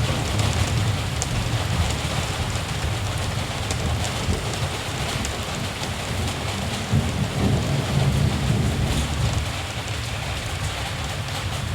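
Steady rain falling, with the low rumble of distant thunder rolling underneath and swelling about seven to nine seconds in.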